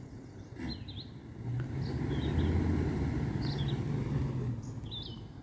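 Tow vehicle's engine revving up about a second and a half in, holding for about three seconds and then easing off, as it strains to pull the trailer through soft mud. Birds chirp throughout.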